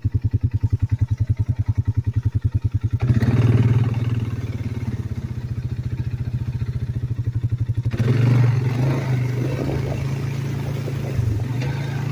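Polaris Sportsman ATV engine idling with an even, rapid pulsing beat, then pulling away about three seconds in and running under load. It pulls harder again about eight seconds in.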